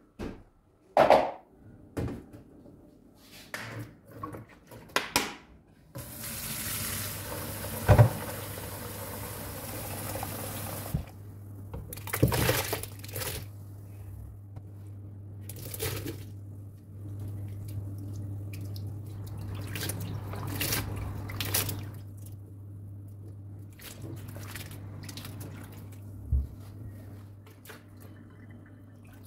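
Kitchen tap running into a sink for about five seconds, from about six seconds in, among scattered knocks and clatter of things being handled at the sink.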